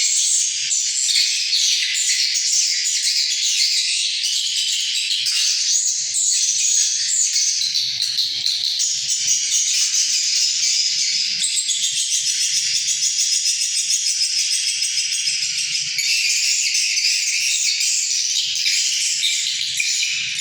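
A swiftlet colony twittering: a dense, unbroken chorus of high chirps and rattling trills.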